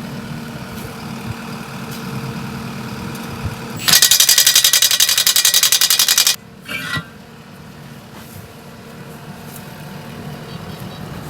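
An impact wrench hammering in a fast, even rattle for about two and a half seconds, then a short second burst, loosening a wheel's lug nuts. A steady engine hum runs underneath.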